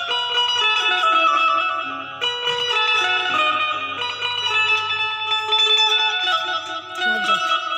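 Indian banjo (bulbul tarang), a keyed plucked-string zither, playing a continuous melody of bright ringing notes that step from one pitch to the next, over a faint low hum.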